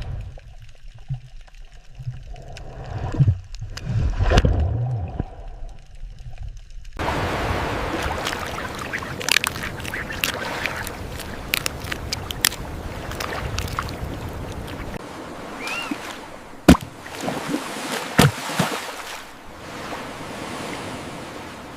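Ocean water ambience. For about seven seconds there are low rumbles and thumps. Then it cuts abruptly to a steady rushing hiss of water with scattered clicks and crackles, a short rising chirp, and two sharp clicks later on.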